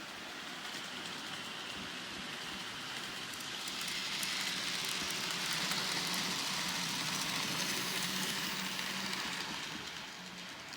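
Model train running on layout track: a steady rolling rush of wheels on rail over a low motor hum. It grows louder from about four seconds in as it comes close, then fades near the end.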